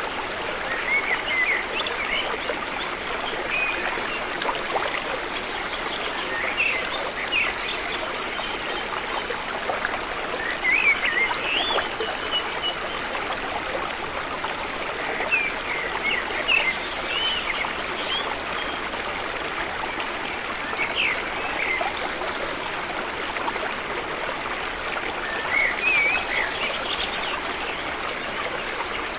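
River water flowing steadily, with birds chirping in short calls every few seconds.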